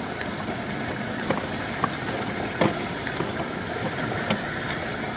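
A motor running steadily, with a few faint clicks.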